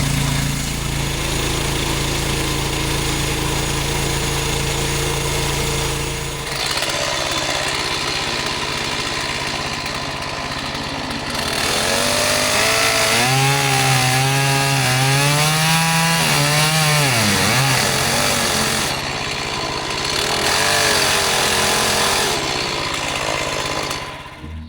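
Gas engine of a portable band sawmill running steadily, then sawing through a log with its engine pitch rising and falling under the load. The sound cuts off suddenly at the end.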